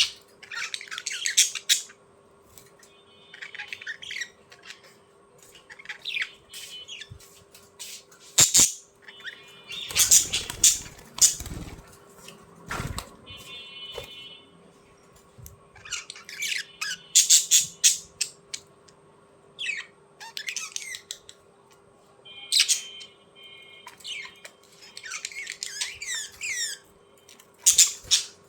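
Birds squawking and chirping in short, harsh bursts every second or two, some calls with a buzzy, stuttering tone. Around ten seconds in there is a louder rustling, knocking disturbance.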